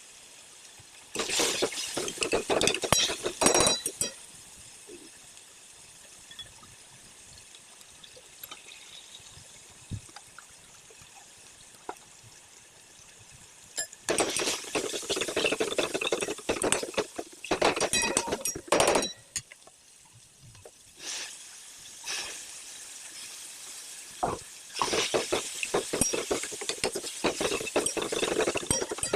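A metal spoon or spatula stirring and scraping in a cooking pan, clinking against the metal in three spells of a few seconds each, with quieter gaps between.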